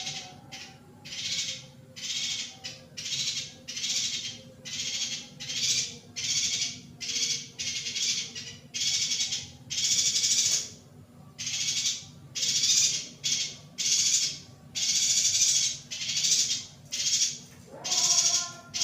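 Female yuhina calling over and over, short buzzy, rasping calls at about one a second.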